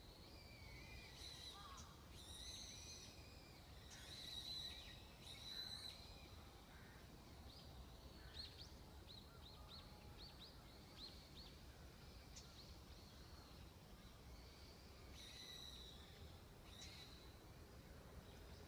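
Faint outdoor ambience with wild birds calling: several short harsh calls, and a rapid run of about ten quick downward chirps in the middle.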